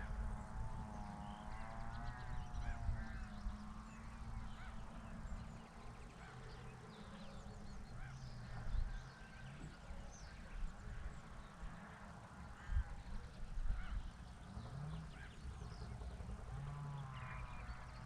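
Waterfowl calling in wavering, honking calls in the first few seconds and again near the end, with scattered small bird chirps and a low steady hum underneath.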